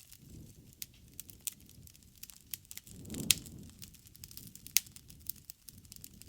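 Bonfire burning: a low, fluttering rumble of flames under irregular crackles and sharp pops of burning wood, with the loudest pops about three seconds in and near five seconds.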